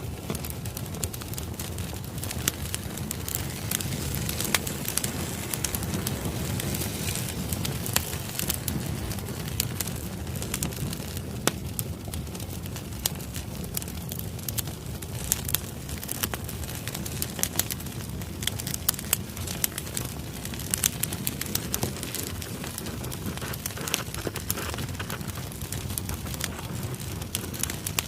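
Firewood burning in a fire pit, crackling and popping with many irregular sharp snaps over a steady low rumble.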